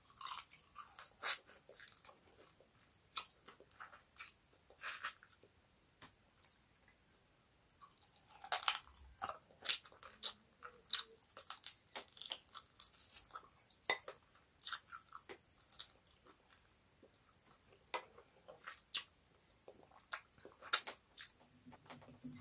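A person biting and chewing meat off the bone, close to the microphone: irregular crunches and clicks with short quiet gaps between bites.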